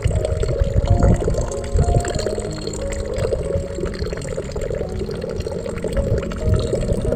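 Running water gurgling and pouring, with soft background music of slow held notes over it.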